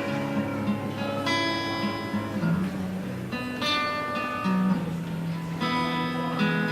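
Instrumental song intro with guitar chords, the harmony changing every second or two.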